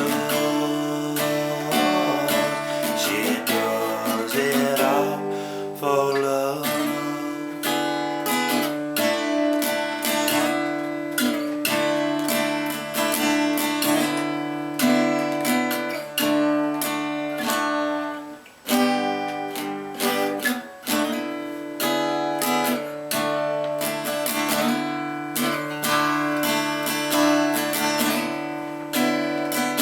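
Acoustic guitar strumming chords in a country song's instrumental passage, with a brief break about two-thirds of the way through.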